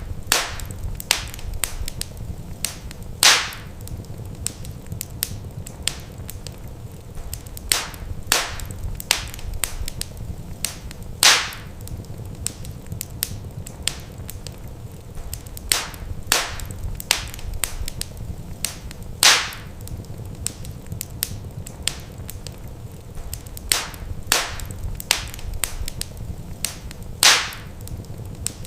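Wood fire in a fireplace crackling: a steady stream of small sharp snaps over a low rumble, with a louder pop about every eight seconds.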